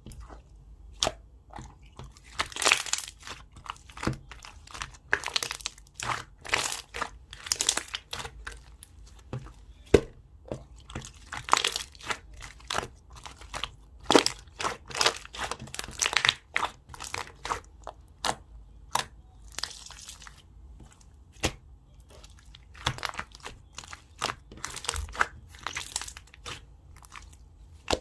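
Jelly slime being squished and pressed by hand, giving irregular crackling pops and short squelchy bursts.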